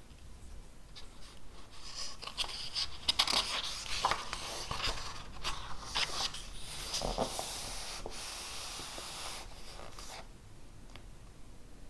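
Handwriting on paper: a run of quick, scratchy strokes that starts about a second and a half in and stops shortly before the end.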